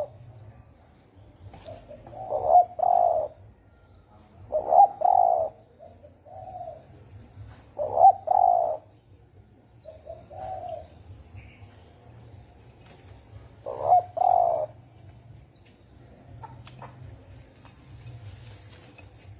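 Spotted dove cooing in its deep, husky 'thổ' call: strong double-note coo phrases repeated every two to three seconds, with softer single coos between and a longer pause before the last phrase. A faint steady high whine sits underneath throughout.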